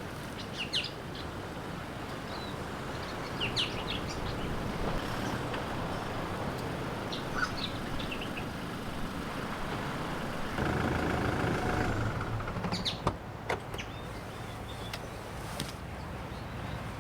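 Steady coastal surf and wind noise with small birds chirping now and then. About ten seconds in, a low hum runs for about two seconds, followed by a few sharp clicks.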